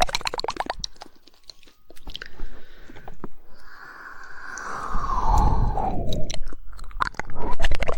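Close-miked ASMR mouth sounds: a quick run of wet tongue clicks in the 'woodpecker' style, then a longer wet mouth sound that falls in pitch, then more rapid tongue clicks near the end.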